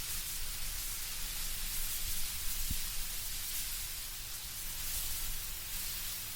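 Wind blowing through autumn trees, the leaves rustling in a steady, even hiss.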